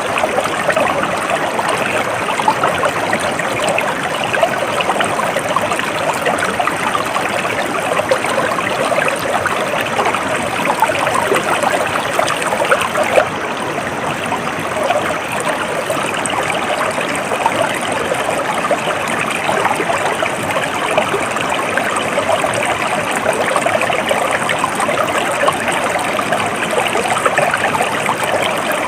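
Shallow stream flowing steadily over stones, a continuous bubbling trickle with no break.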